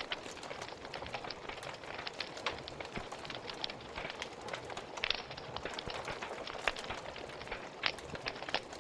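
Wood fire burning in a fireplace: a steady hiss with irregular crackles and pops, a few sharper pops standing out.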